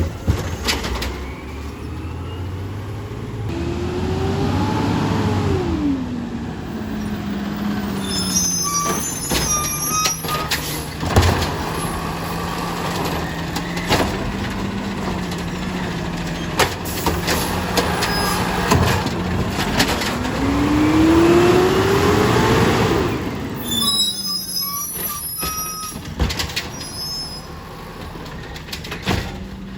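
Garbage truck working its hydraulic lift twice: the engine revs up and falls back each time, followed by metal clanks and squeaks as the cart is emptied into the truck. Between cycles the truck runs with a steady hum.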